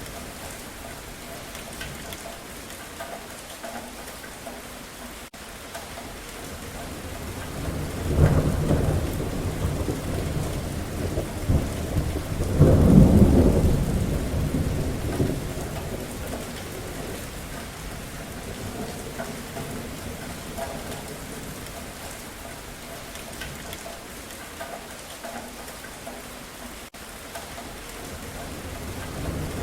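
Steady rain falling, with a roll of thunder that builds about a quarter of the way in, is loudest around the middle, then dies away. Another rumble of thunder starts near the end.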